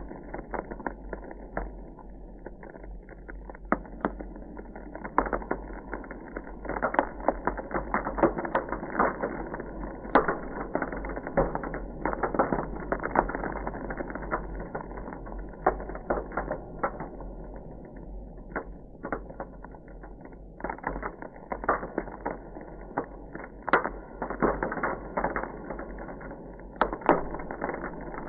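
Ice crackling: a dense run of irregular sharp cracks and clicks, some louder than others, over a steady low hum.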